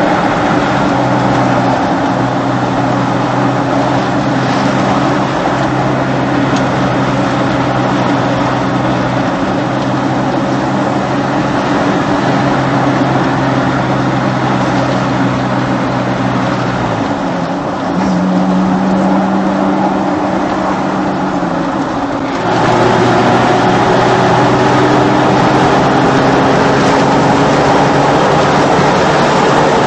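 Jeep Wrangler engine running steadily through an aftermarket after-cat exhaust, an even low drone. Its pitch shifts about two-thirds of the way in, and a few seconds later it cuts abruptly to another recording of the exhaust at a slightly different pitch.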